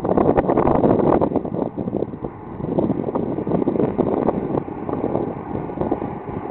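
Amtrak Acela Express trainset running past on the line below, a steady noisy rush with wind buffeting the microphone; it eases a little near the end.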